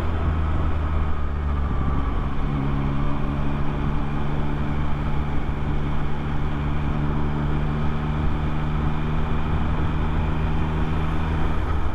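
2024 Yamaha MT-09's three-cylinder engine and exhaust running on the move. From about two seconds in the engine note holds at one steady pitch, cruising at constant speed, and it eases off just before the end.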